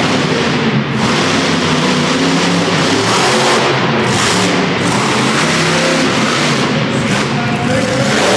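Monster truck engine revving hard during a freestyle run, the pitch rising and falling with the throttle, with music from the arena loudspeakers underneath.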